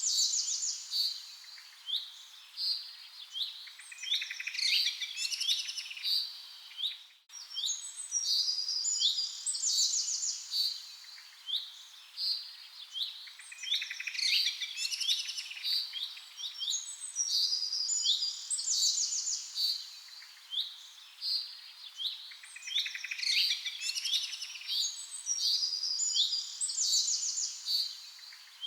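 A chorus of several birds chirping and singing, with many quick, high calls and trills overlapping; it breaks off for an instant about seven seconds in, then carries on.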